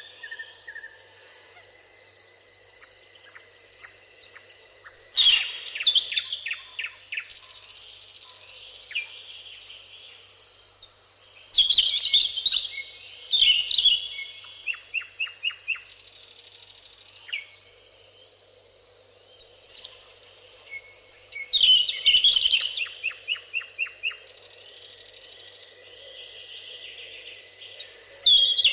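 Songbirds singing in a meadow: a loud, rapid song phrase ending in a fast trill recurs four times, over quieter chirping from other birds. A high buzzing hiss comes and goes three times between the phrases.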